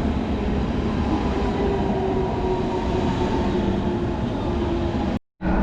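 A train running on rails: a steady rumble with a faint motor whine that sinks slowly in pitch. The sound cuts off suddenly near the end.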